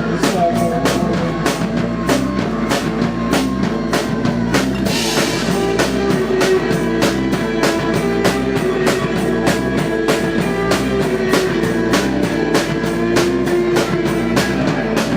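Live psychedelic rock band playing an instrumental stretch: a steady, driving drum-kit beat under droning held tones from keyboard and guitar, with a cymbal-like wash about five seconds in.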